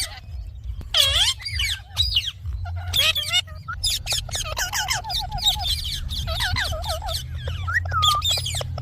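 Indian ringneck parrot calling and chattering: high, bending squawks and whistles, with a quick run of short repeated notes in the middle, over a steady low hum.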